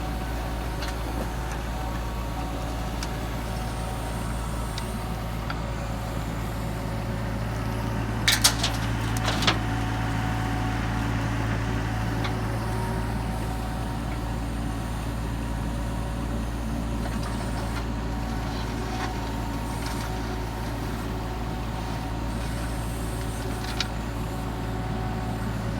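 Mini excavator engine running steadily at a constant speed, with a few sharp clanks about eight to nine seconds in and one more near the end.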